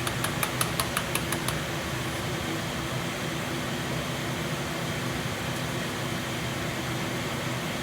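Kitchen exhaust fan running with a steady, noisy hum. A quick run of about nine sharp clicks or taps comes in the first second and a half.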